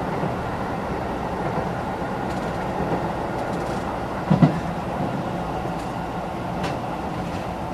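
Running sound inside a Keisei 3000 series electric commuter train car: a steady rumble of wheels and motors under way. A short low thump stands out about four and a half seconds in.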